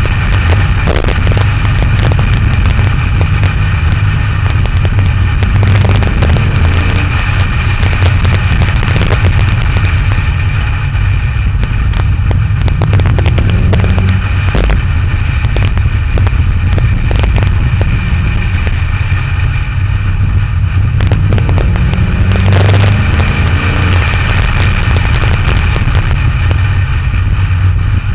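Sports car engine pulling hard along a winding road, its note rising and falling with the throttle, under a steady rush of wind and road noise on a camera mounted on the outside of the car.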